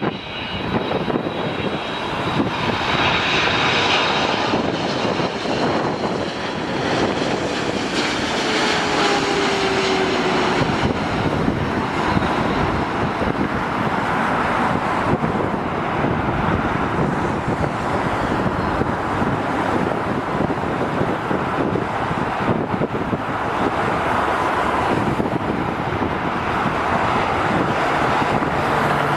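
Jet airliner's engines running loudly as the plane passes, a long steady rush of engine noise with a faint tone sliding slowly downward partway through.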